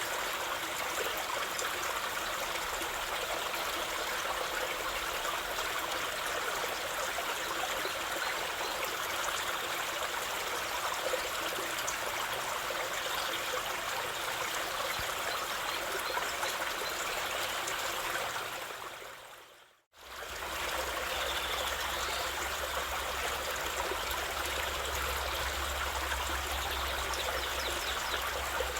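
Steady flowing water of a stream. About twenty seconds in, the sound fades out to silence for a moment and fades straight back in.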